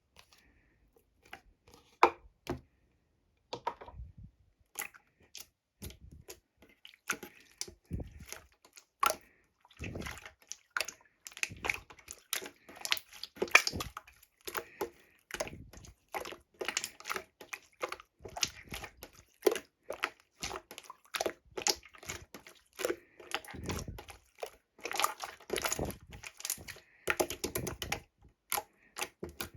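Water-jelly slime being squeezed and worked by hand, giving a run of irregular sticky clicks and pops. The pops are sparse at first and come thick and fast from about five seconds in.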